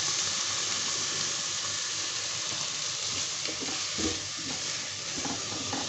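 Chicken and shredded vegetables sizzling steadily as they fry in a non-stick wok, just as white vinegar is poured in. A few light scrapes and knocks of the stirring spoon come in the second half.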